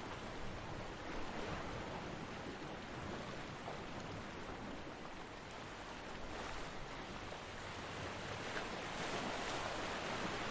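Ocean surf washing onto a beach: a steady rush of breaking waves that eases a little in the middle and swells again toward the end.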